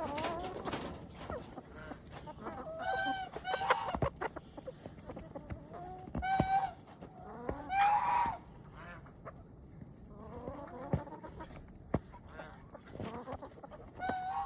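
Chickens calling, with several separate drawn-out squawks.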